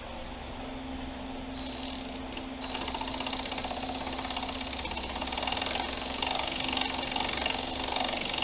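Ratchet wrench clicking rapidly as the snowmobile chaincase's chain tensioner adjuster is tightened to take up chain slack. The clicking starts about one and a half seconds in and grows louder.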